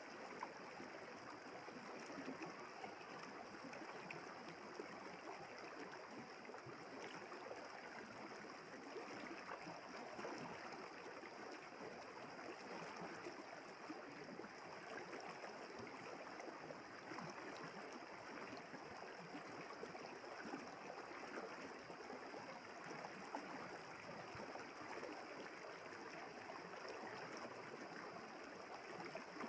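River water flowing steadily, a soft, even rush with no distinct splashes.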